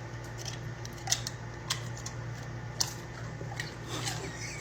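A dog biting at food held out by hand, making a few sharp crunching clicks over a steady low hum.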